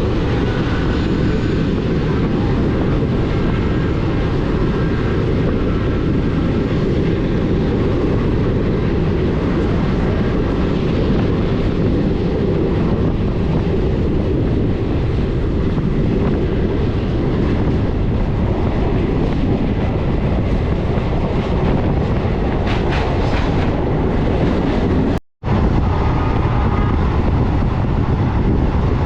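Passenger train running on the rails: a steady, loud rumble of wheels and coaches. It cuts out abruptly for a split second about 25 seconds in, then resumes.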